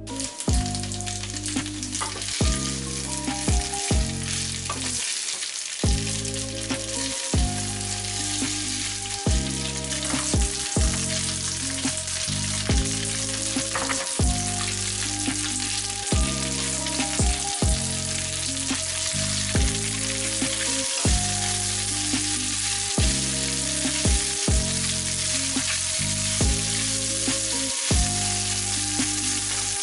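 Leftover spaghetti in tomato sauce and olive oil frying in a nonstick pan: a steady sizzle as a wooden spatula stirs the noodles. Background music with a regular beat plays underneath.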